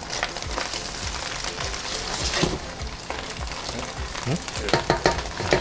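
Scrambled egg with shallots and chili sizzling in oil in a hot wok while a spatula stirs it, with a few sharp clinks of the spatula against the wok, most of them near the end.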